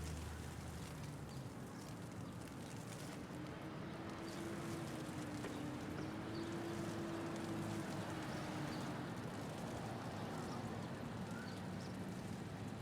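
City traffic ambience with a steady wash of road noise and light hail ticking, layered as a sound-effects bed. A low engine hum fades about a second in, and a held engine-like tone runs from about three to nine seconds in.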